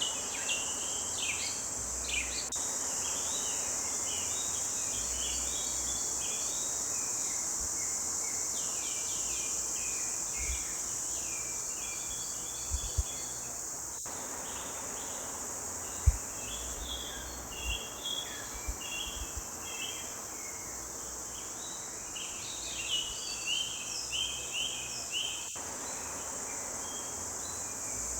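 Forest birds singing many short chirping phrases over a steady high-pitched insect drone. A few soft low thumps come through now and then.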